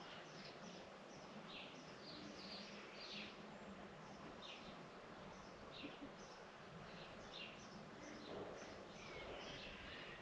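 Small birds chirping: short, high chirps repeated every half second or so over a steady background hiss. Near the end a longer, wavering call begins.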